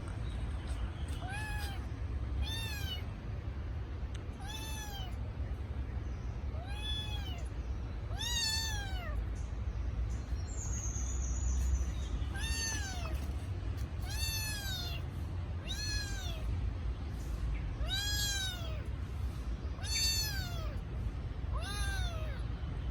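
Kitten meowing over and over, about eleven high cries that each rise and fall, spaced a second or two apart with a pause of a few seconds midway: the distress cry of a kitten calling for its mother. A steady low rumble runs underneath.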